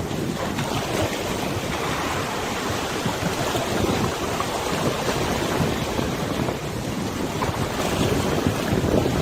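Wind and waves on a wide river: a steady rushing of water with wind buffeting the microphone, the noise growing a little louder near the end.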